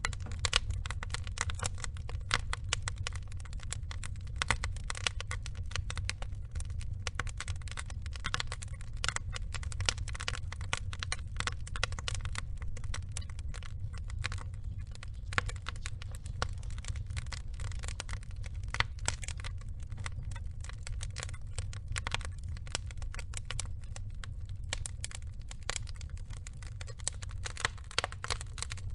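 Wood logs burning in a fire, crackling with frequent irregular sharp pops over a steady low rumble.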